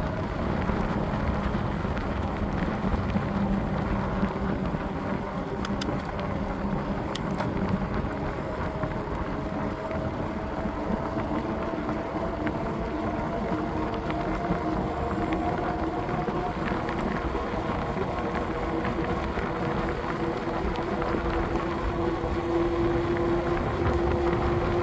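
Riding noise on a bike ride: wind on the microphone over a steady rushing road noise, with a faint hum that rises slowly in pitch over the second half.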